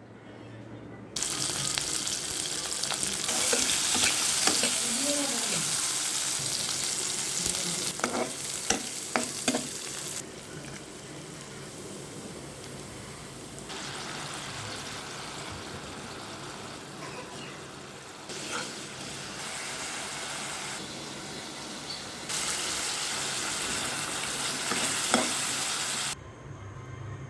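Small crabs sizzling as they fry in hot oil for a crab bhuna, with the clicks and scrapes of a spatula stirring them in the pan. The sizzle's loudness jumps up and down abruptly several times.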